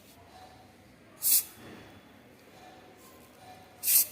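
Aerosol can of coil-protection spray giving two short bursts of hiss, one about a second in and one near the end.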